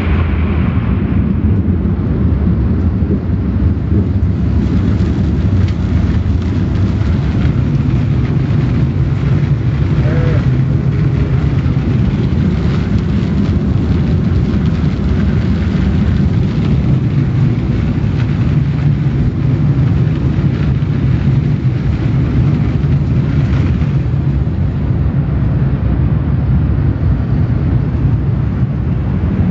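Car wash equipment running: a loud, steady low rumble with an even rushing hiss.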